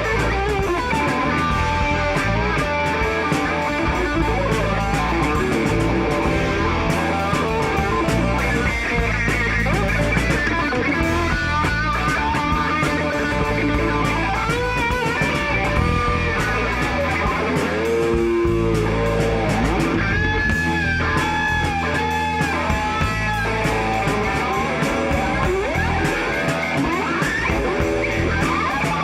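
Rock band playing an instrumental passage led by electric guitar, with bent, wavering lead notes over a strummed rhythm and a steady drum beat.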